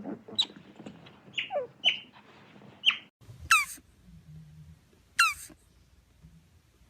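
An animal giving short, high squeaks that drop in pitch. After a cut about three seconds in, there are high squeals about every second and a half.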